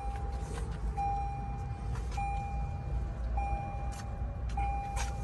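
Lexus RX cabin warning chime beeping over and over, each steady beep about a second long with a short gap, about five in a row, with a few light clicks of handling alongside.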